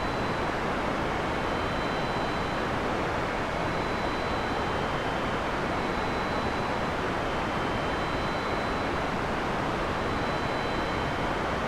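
Heavy rain falling steadily, a dense even hiss with no thunder in this stretch. Faint thin high tones fade in and out above it.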